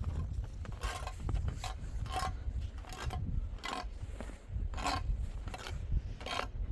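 Repeated rasping, scraping strokes, about seven, coming unevenly roughly once a second, over a steady low rumble.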